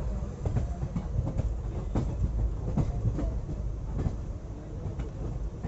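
Passenger train running on the track: a steady rumble of the coach wheels with irregular clatter and knocks.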